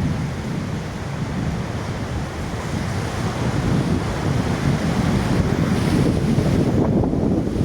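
Wind buffeting the microphone: a loud, steady low rushing that swells slightly toward the end.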